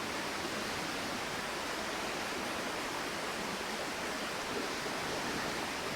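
A flowing river rushing steadily, an even wash of water noise.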